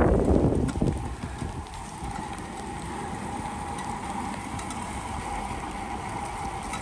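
Bicycle riding on a wet trail in the rain: wind buffeting the microphone fades out about a second in, leaving a steady hiss and crackle of tyres on wet pavement and rain, with a faint steady whine.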